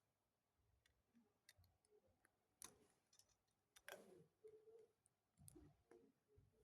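Faint, irregular clicks and light knocks of plastic Lego pieces being handled and pressed together, the sharpest about two and a half and four seconds in.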